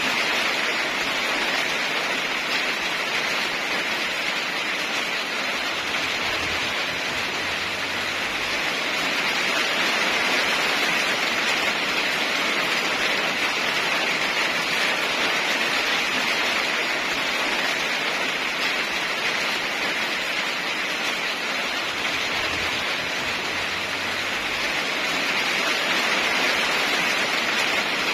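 Steady heavy rain falling, an even hiss with no breaks that swells gently now and then.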